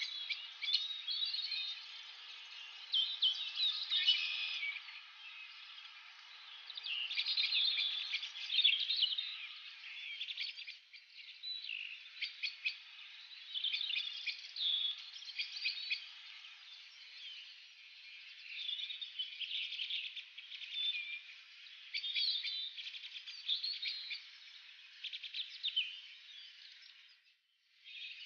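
Birds chirping and twittering in dense, overlapping short calls, with a brief break near the end.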